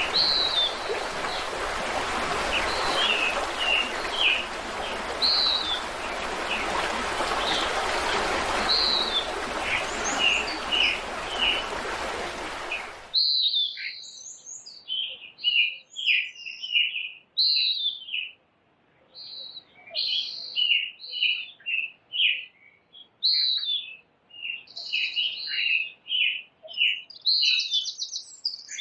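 Several birds chirping and singing over a steady rush of water. About halfway through the rushing cuts off suddenly, leaving only the birdsong.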